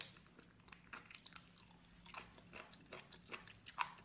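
Close-up chewing and biting on a piece of blanched sea cucumber: a faint run of small, irregular crunchy clicks, with one sharper click just before the end.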